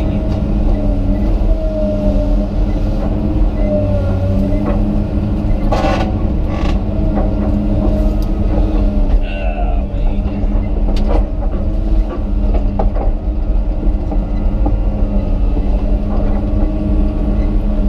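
Komatsu PC200 excavator's diesel engine running steadily, with a hydraulic whine that wavers in pitch as the machine works. A few sharp knocks and cracks stand out, the loudest about six seconds in.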